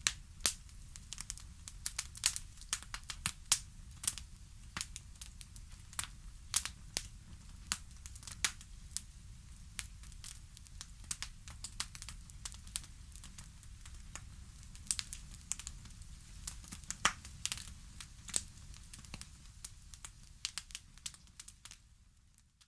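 Wood fire crackling in a fireplace: irregular sharp pops and snaps over a low steady rumble, fading out near the end.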